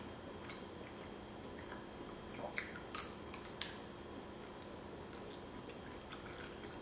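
A person chewing cooked shrimp close to the microphone, with soft wet mouth sounds and a few sharp clicks around the middle.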